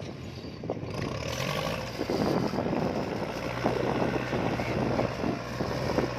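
Kubota L4708 tractor's diesel engine running under work, with repeated knocks and clatter as it pushes dirt. The engine's steady hum drops away for a couple of seconds partway through, then returns.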